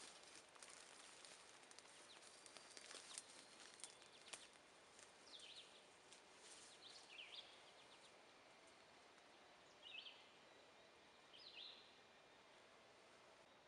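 Faint bird calls: about five short chirps spread through the middle and later part, over a quiet hush, with scattered light ticks in the first few seconds.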